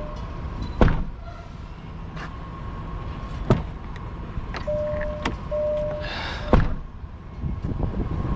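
Low steady rumble of an idling truck, with several sharp knocks, a short hiss followed by a bang about six seconds in, and two short pairs of electronic beeps.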